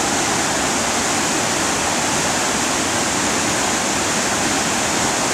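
Steady rushing of a waterfall, a 17 ft drop of river water, as an even, unbroken noise.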